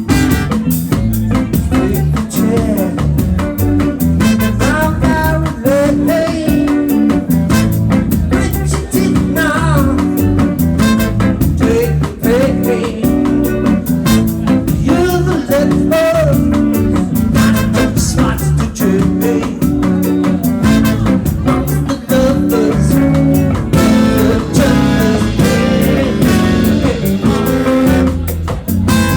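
A rock band playing live: guitar and drums with a singing voice, loud and continuous.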